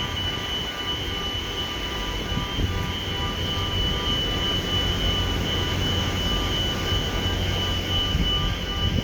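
The Red Eagle car ferry's engines running steadily while underway: a constant low rumble with a steady high machinery whine over it.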